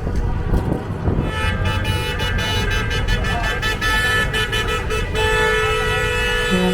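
Truck air horns honking at a convoy protest: from about a second in, several horns sound together in a long, steady blast over a low rumble of traffic.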